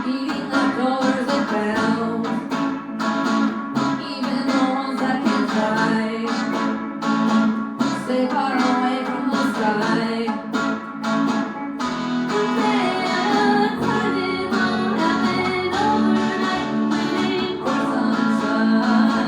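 Acoustic guitar strumming steadily under a singer's voice: a song played and sung live.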